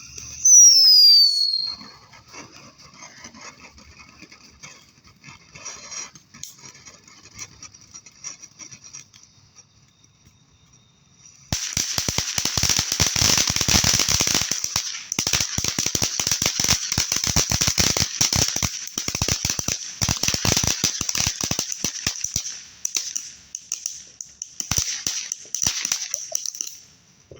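A lit consumer firework: a short falling whistle right at the start, a few seconds of faint sputtering pops, then from about eleven seconds in a long run of rapid crackling pops over a hiss that goes on for about fifteen seconds and stops just before the end.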